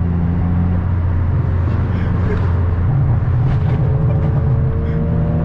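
Modified turbocharged VW's engine and custom exhaust droning steadily at cruising speed, holding an even pitch.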